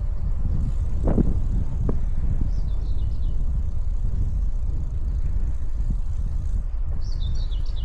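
Steady low rumble of wind buffeting the microphone and rolling noise from a moving bicycle, with a couple of knocks about one and two seconds in. Short high chirps come around three seconds in and again near the end.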